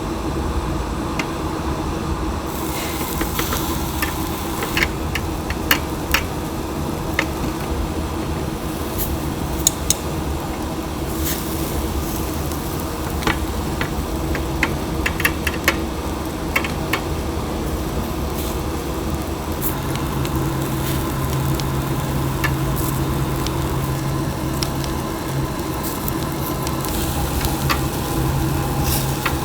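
Chicken sizzling on a charcoal grill, with scattered sharp clicks of utensils over a steady mechanical hum.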